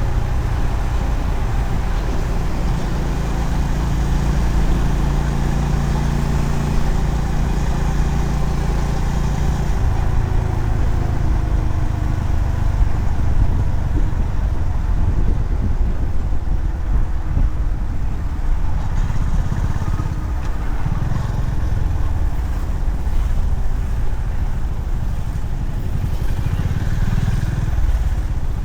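Honda CB350RS's single-cylinder engine running as the motorcycle is ridden along the road, over a steady low rumble. The engine note eases off about ten seconds in.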